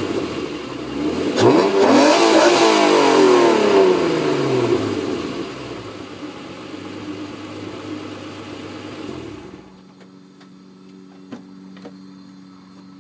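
1991 Acura NSX's V6 through a Pride V2 aftermarket exhaust, revved once: the pitch climbs sharply about a second in, then falls back over a few seconds to a steady idle. About nine and a half seconds in the exhaust rumble drops away, leaving a faint steady hum.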